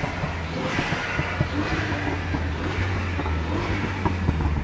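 A car engine idling, a steady low hum with no revving.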